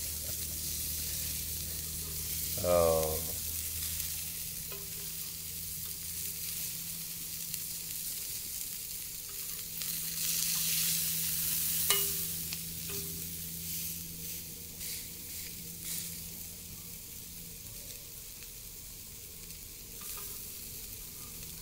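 Burger patties sizzling steadily on a steel grill plate over a wood fire, the sizzle swelling around the middle, with a sharp metal click from the spatula about twelve seconds in. A brief pitched sliding sound about three seconds in.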